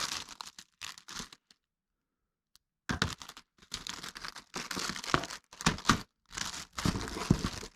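Plastic packaging of small engine parts crinkling and rustling as it is handled, in short irregular bursts, with a pause of over a second near the start.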